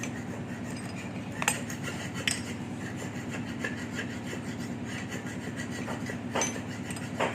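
A steady, low machine hum, with a few short metallic clicks and knocks from handled parts or tools.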